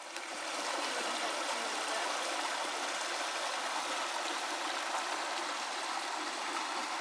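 Stream water running steadily over rocks: an even, unbroken rush.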